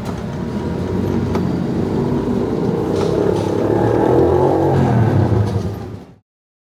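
Engine of a vehicle running while being ridden, growing louder towards about four seconds in, then cutting off abruptly about six seconds in.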